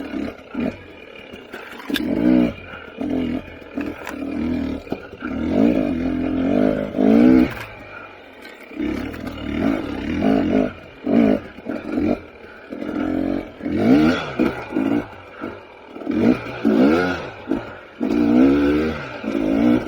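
KTM 300 XC TPI two-stroke single-cylinder dirt bike engine revving in repeated short bursts, its pitch rising and falling as the throttle is opened and closed every second or so.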